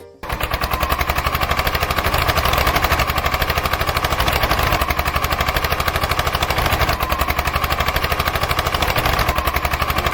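Small engine running steadily with a rapid, even beat, cutting in abruptly.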